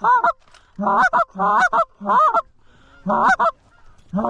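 Goose honking: about six loud, short honks in quick succession, each one a brief pitched call with gaps between them.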